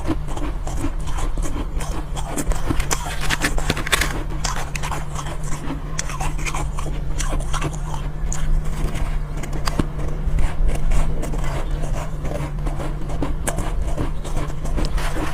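Soft, powdery ice being bitten and chewed close to the microphone: a dense run of crisp crunches, over a steady low hum.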